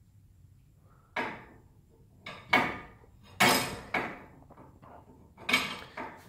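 Metal tools knocking against garage door torsion spring hardware: six or seven sharp clanks with a short ring, irregularly spaced, the loudest two about two and a half and three and a half seconds in.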